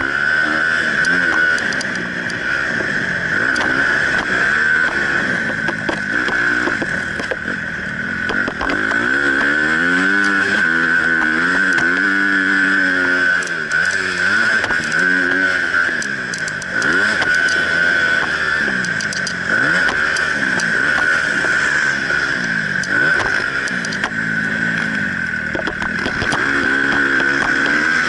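Honda CRF250 motocross bike's single-cylinder four-stroke engine, heard from an onboard camera, revving up and down over and over as the rider accelerates and shuts off around the track, under a steady high tone, with scattered short clicks.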